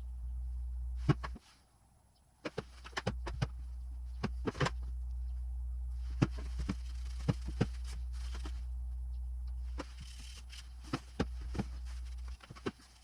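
Irregular sharp clicks and clinks of metal tools and parts being handled during work on a motorcycle engine, about a dozen in all, over a low steady hum that drops out briefly a few times.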